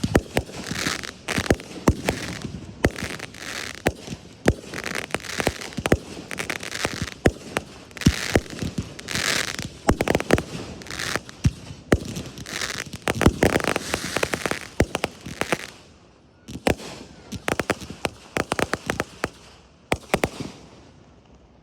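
Fireworks display: a rapid barrage of sharp bangs mixed with crackling. It eases briefly about sixteen seconds in, then a last run of bangs stops about a second before the end.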